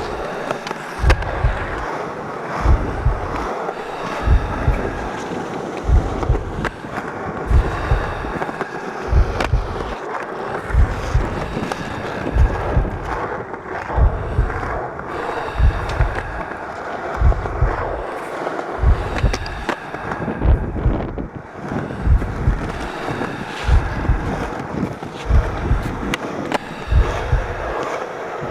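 Skateboard wheels rolling on pavement over an instrumental hip-hop beat, with a low kick drum landing evenly about every second and a half.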